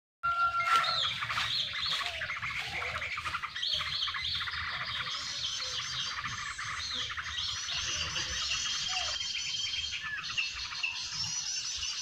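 Dense chorus of small birds chirping and twittering, starting abruptly and keeping up without a break: the mp3 lure recording used to draw in common ioras (sirtu).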